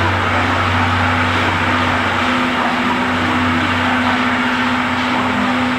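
Train standing at a railway platform, running with a steady low mechanical hum and drone.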